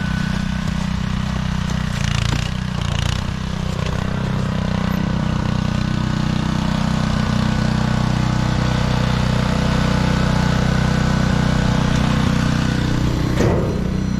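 A machine's engine running steadily, with a couple of brief scraping noises about two seconds in and near the end.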